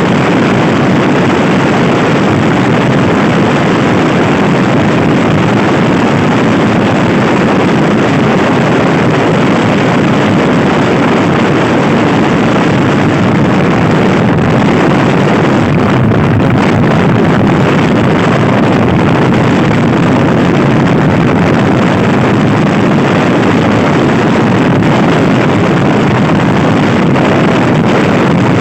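Loud, steady wind noise buffeting the microphone of a Honda Scoopy-i scooter being ridden hard, with the scooter's engine running underneath.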